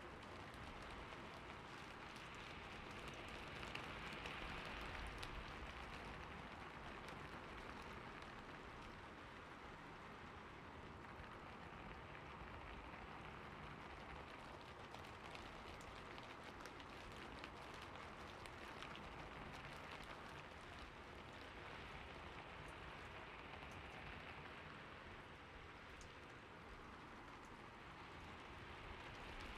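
Faint, steady patter and hiss of falling water, with fine drop ticks throughout, swelling a little about four seconds in.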